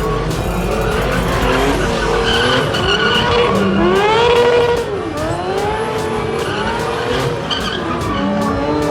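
Drift car's engine revving hard, its pitch rising and falling again and again, while the tyres skid and squeal.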